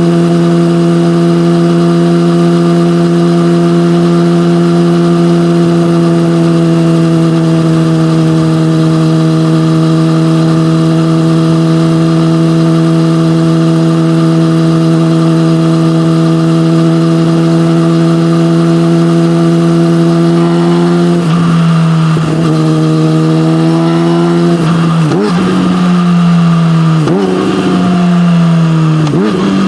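Yamaha motorcycle engine running through an SC-Project aftermarket exhaust, holding a steady cruise at constant revs for about twenty seconds. It then accelerates through the gears, its pitch climbing and dropping back sharply several times as it shifts up.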